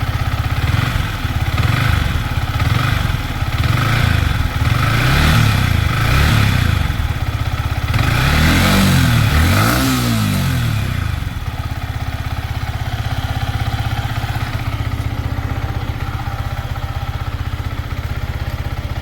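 Yamaha MT-15's single-cylinder engine blipped several times in neutral, revs rising and falling, the biggest two revs near the middle, then settling to a steady idle. The owner judges it free of the engine noise he was checking for.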